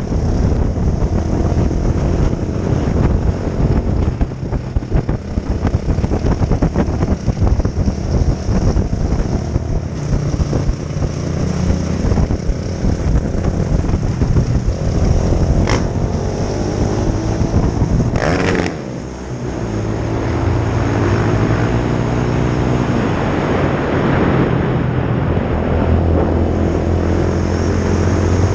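2004 Honda CRF450R dirt bike's single-cylinder four-stroke engine running hard, its pitch rising and falling with the throttle. The engine note drops away briefly about two-thirds of the way through, then picks up again.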